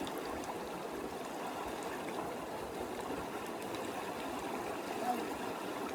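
Creek water running steadily, an even rushing without breaks.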